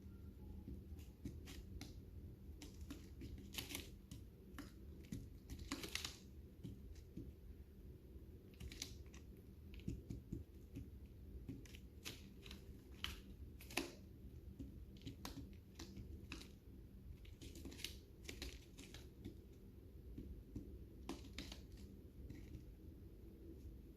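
Lovebirds eating, their beaks cracking and nibbling seeds: faint, irregular sharp clicks and crunches, a few louder than the rest, over a steady low hum.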